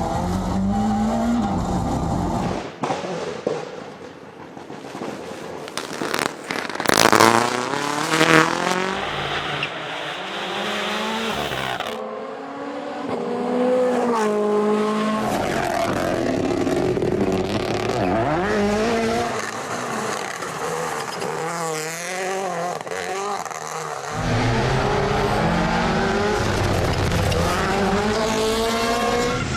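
Rally cars at full throttle on a special stage: engines revving up through the gears and dropping back, in several short clips one after another, with tyre noise on the road surface. The loudest moments are two hard-revving passes about seven and eight and a half seconds in.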